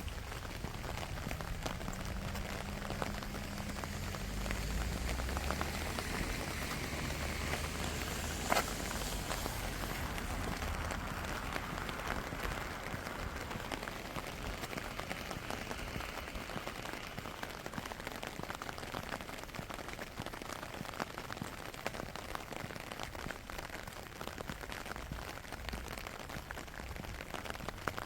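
Steady rain falling, an even hiss. A low rumble swells and fades in the first third, and there is a single sharp click about eight seconds in.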